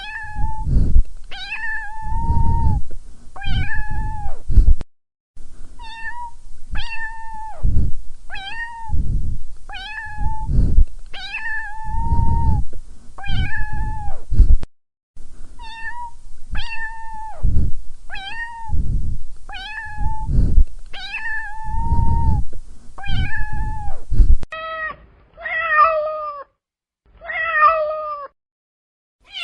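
A cat meowing again and again, about one high meow a second. Near the end a different cat gives three lower meows.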